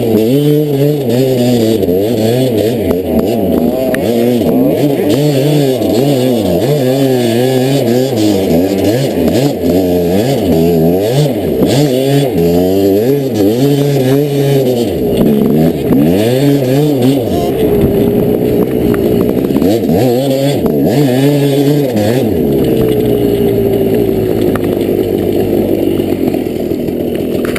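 Dirt bike engine revving up and down over and over as it is ridden, the pitch climbing and dropping every second or two. In the last few seconds it settles to a steadier, gentler note.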